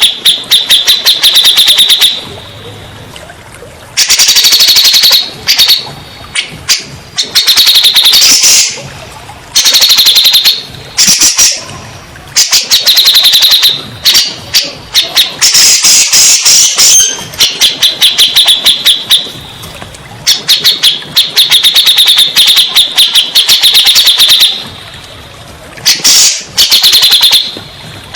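Cucak jenggot bulbul singing loudly in rapid, trilled chattering phrases of about one to two seconds each, separated by short pauses.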